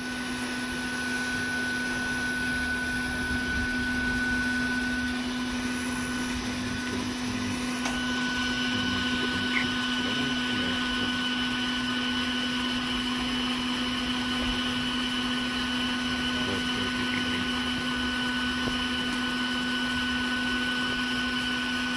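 Bee-removal vacuum running steadily, sucking honeybees out of a hive in a house wall: a constant hum, with a higher whine joining about a third of the way in.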